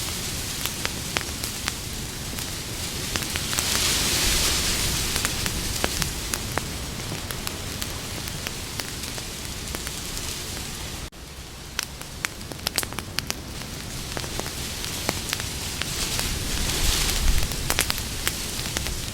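Campfire crackling, with many short sharp pops over a steady hiss. The hiss swells twice, about four seconds in and again near the end, and the sound drops out for a moment about eleven seconds in.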